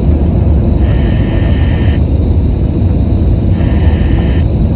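Steady low rumble of an Airbus A320's cabin noise on approach, engines and airflow. Two brief bursts of radio hiss from the overlaid air traffic control audio come in about a second in and again near the end.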